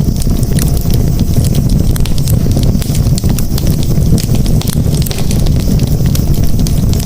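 Campfire crackling, with frequent sharp pops and snaps over a steady low rumble of burning flames.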